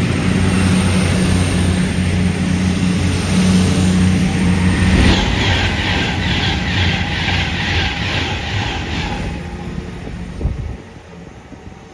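A train passing: a steady low engine drone, then a regular clickety-clack of wheels over rail joints at about two to three beats a second, fading away near the end.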